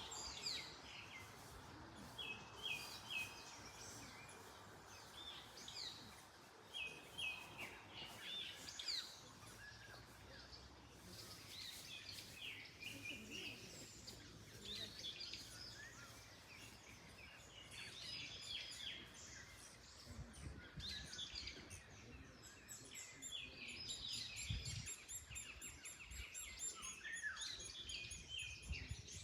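Several birds chirping and singing in overlapping short calls and trills, over a low rumble of wind that grows stronger in the last third.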